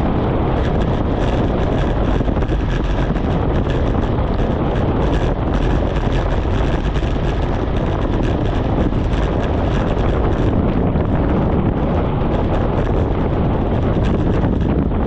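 Steady loud rush of wind on the microphone of a bicycle descending at speed, with many small ticks and knocks running through it.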